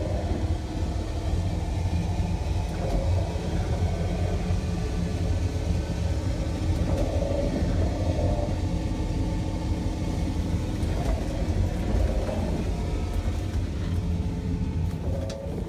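Steady low rumble of an engine running, with a faint even hum above it.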